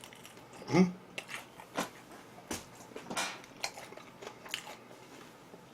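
A person chewing and biting food close to the microphone, with scattered short crunches and wet mouth clicks.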